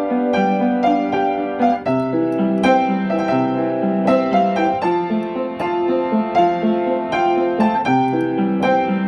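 Instrumental piano music: a gentle melody over chords, with the notes struck in a steady flow.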